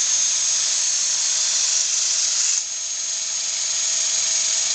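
Vacuum-powered LEGO engine running at speed on vacuum-cleaner suction: a steady high-pitched whine and hiss. About two and a half seconds in, the sound briefly drops in level, then builds back up.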